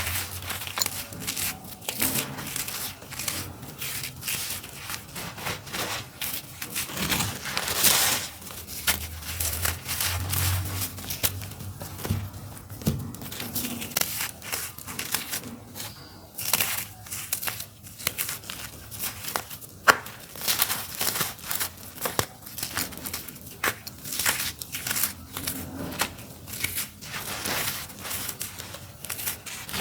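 Dry, crunchy clumps of earthy dirt being crumbled, a dense run of crackles and crunches with a few louder cracks among them.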